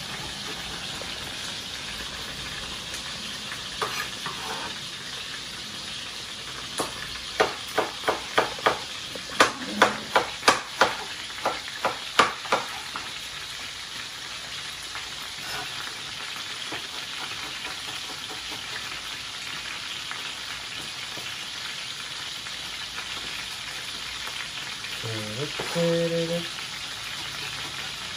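Marinated conger eel pieces frying in a pan with a steady sizzle. Between about seven and thirteen seconds in, a run of about a dozen sharp knife chops cuts through it, with a single chop or two a few seconds earlier.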